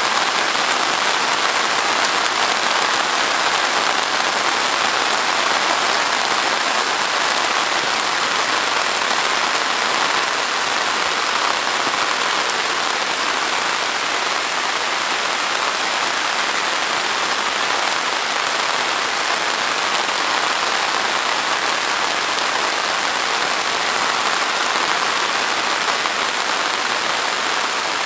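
Heavy rain falling steadily on trees and grass: a loud, even hiss with no breaks.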